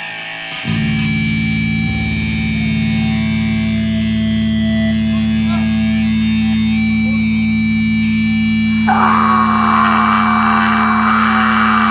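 Live rock band's intro: an electric guitar run through effects holds one low note that sets in just under a second in and rings on steadily. About nine seconds in, a wash of noise joins it.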